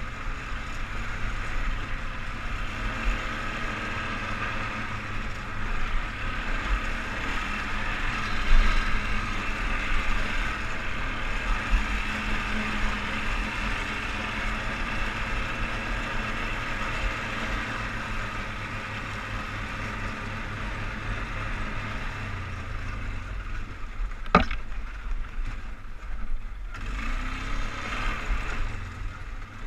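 ATV engine running steadily while riding, with one sharp knock about 24 seconds in.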